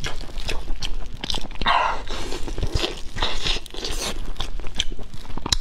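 Close-miked chewing and biting of braised pork: a run of wet mouth clicks and smacks, with a few short noisy sucking or tearing sounds in between.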